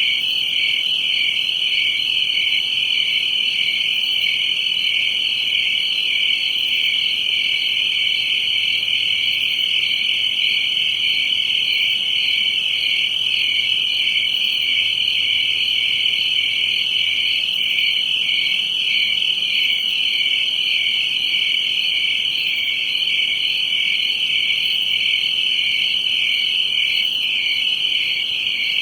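Cricket chirping continuously, a steady high trill that pulses evenly throughout.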